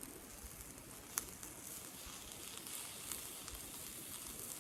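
Sauced yakitori skewers sizzling quietly over glowing binchotan charcoal, with one sharp pop about a second in.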